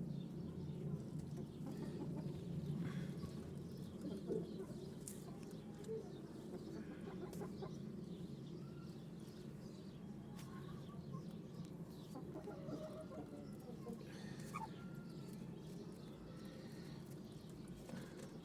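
Chickens clucking softly at intervals over a steady low background hum.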